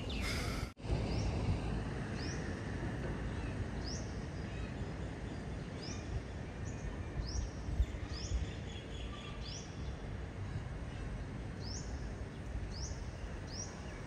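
A bird calling over and over: short high chirps that rise and fall, roughly one a second, over a steady hum of street noise.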